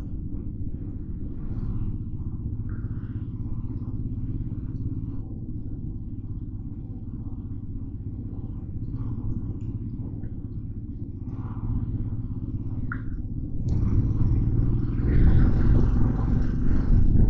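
Motorcycle engine running steadily under way, a low rumble with road noise; about three-quarters of the way through, a louder rushing noise joins it.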